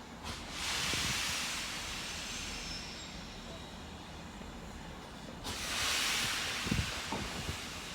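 Steam locomotive letting off steam: a hiss rises just after the start and eases off, then a second strong hiss comes about five and a half seconds in.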